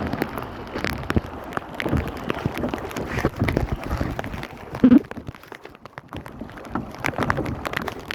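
Rain falling on and around a kayak, with drops ticking irregularly close by, and one loud knock about five seconds in.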